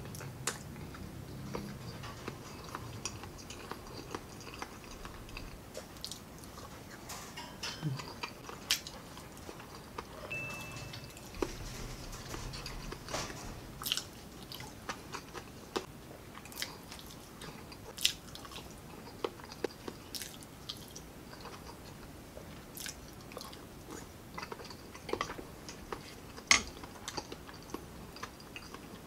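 A man chewing balut (boiled duck eggs) topped with chili: wet chewing with lip smacks and sharp mouth clicks at irregular intervals.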